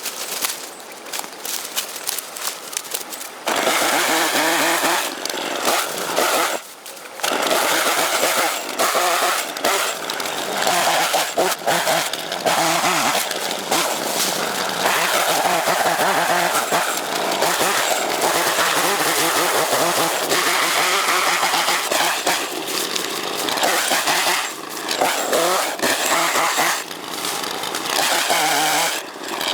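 Chainsaw running at high revs, with a few brief drops in speed. In the first few seconds before it, quieter crackling and knocks are heard.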